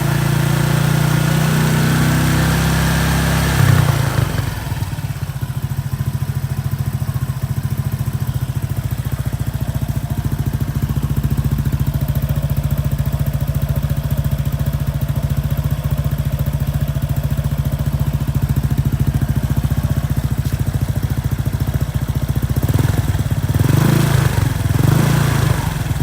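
Honda PCX150 scooter's single-cylinder engine heard through its exhaust: held at raised revs, dropping to a steady idle about four seconds in, then two quick throttle blips near the end before it settles back to idle.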